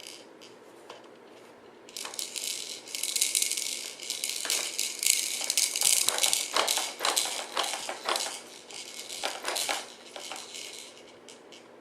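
Plastic baby toy rattling, shaken in quick irregular bursts that start about two seconds in and die away near the end.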